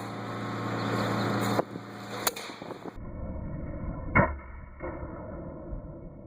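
Wind buffeting the microphone, then a single sharp air rifle shot about four seconds in, followed by a fainter knock about half a second later.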